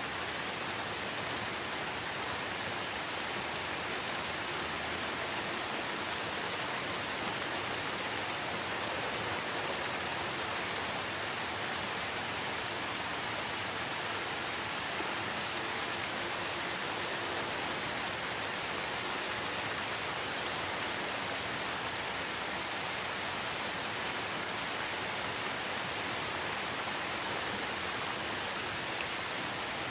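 Steady rain falling: an even, unbroken hiss with the odd single drop standing out.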